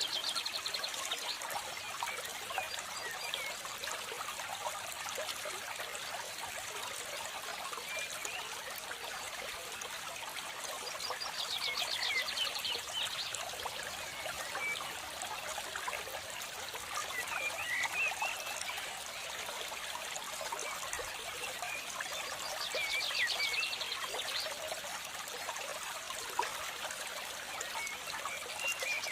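Relaxing nature ambience: steady trickling water, with a rapid rattling call about every eleven seconds and scattered short chirps.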